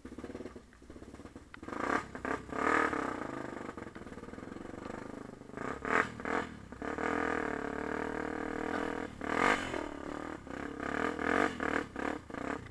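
Yamaha TT-R250 dirt bike's single-cylinder four-stroke engine running and revving while ridden, its pitch rising and falling, with several sharp knocks and rattles along the way.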